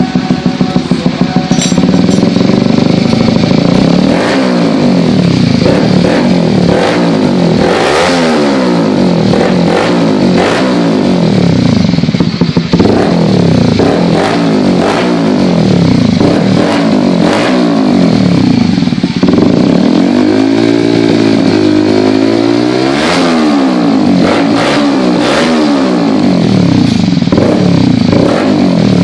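Honda CB150R's single-cylinder engine being revved through an aftermarket carbon slip-on exhaust: repeated quick throttle blips that rise and fall every second or two, with one longer held rev a little past the middle.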